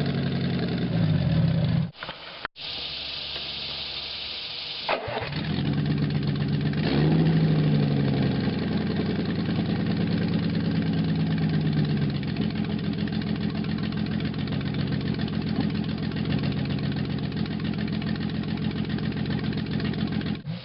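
Maserati 3500 GT's 3.5-litre twin-overhead-cam engine with triple Weber carburettors running on a test stand. It breaks off sharply about two seconds in, with a hissing spell up to about five seconds. It then runs again, its revs rising and falling and settling into a steady idle.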